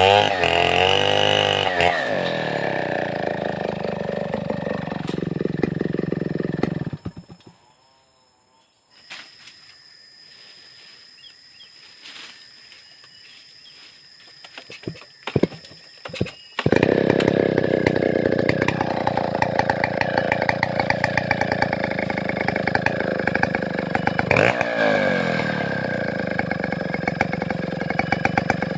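Large two-stroke chainsaw, a Stihl 070-type New West 707, running at high revs with the pitch rising and falling. About seven seconds in it goes quiet for several seconds, then comes back in at full throttle.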